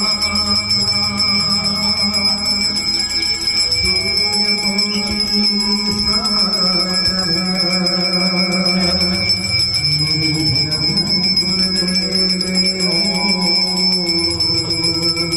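Hindu aarti music: sung devotional melody over steady ringing bells, with held notes that change pitch every few seconds.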